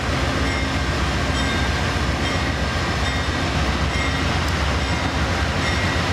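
Amtrak passenger cars rolling slowly along the track during switching: a steady rumble of wheels on rail.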